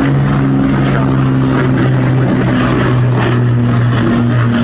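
Propeller aircraft engine droning steadily with a strong low hum.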